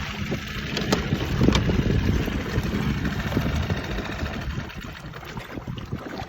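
Mercury 6 hp four-stroke outboard motor running at low speed, gradually getting quieter, with a couple of sharp clicks about a second in.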